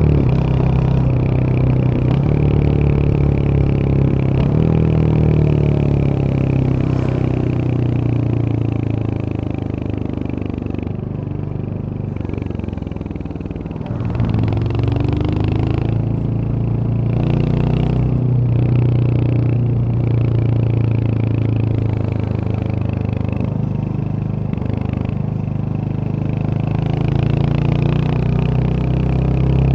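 Royal Enfield Hunter 350's single-cylinder 349 cc engine running under way on the road. It eases off from about ten seconds in, then picks up sharply at about fourteen seconds, its pitch rising as the bike accelerates again.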